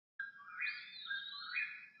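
American robin singing a run of short whistled phrases, about two a second, with a second higher bird voice overlapping.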